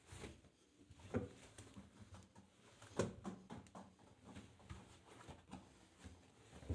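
Arçelik 5083 washing machine in its rinse phase: the drum turning with a faint low hum, and the laundry tumbling with irregular soft knocks and splashes, a stronger one about a second in and another about three seconds in.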